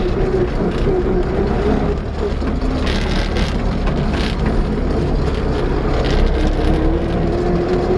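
MTZ-80 tractor's four-cylinder diesel engine running steadily under load as the tractor drives in ninth gear, low range.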